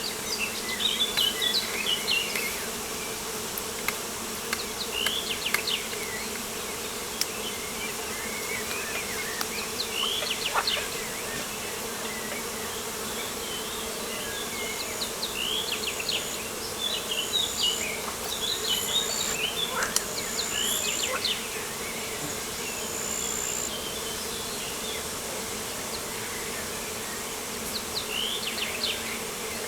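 Steady insect buzzing, a low even drone, with bursts of short, quick bird chirps above it several times.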